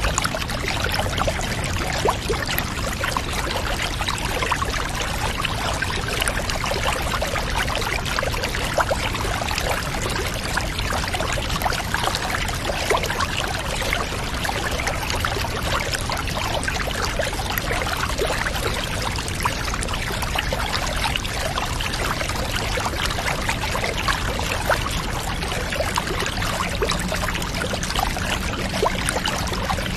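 Steady trickling and pouring water, an even wash of noise dotted with small drips and splashes, the sound of running bath water.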